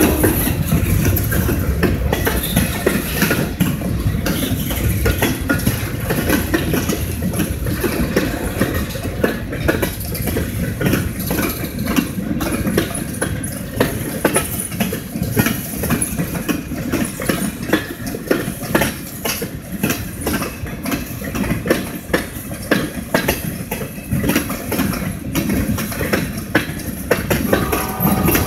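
Freight train cars rolling past: a steady rumble with frequent, irregular clacks of steel wheels over the rail joints. A steady pitched tone comes in near the end.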